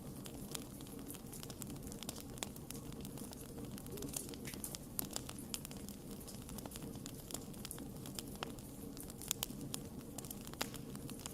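Wood fire burning: irregular sharp crackles and pops over a steady low rumble of flame.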